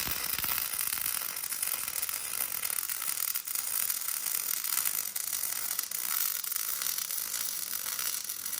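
Electric welding arc running steadily on the steel of a grapple bucket, an even crackle that holds through without a break.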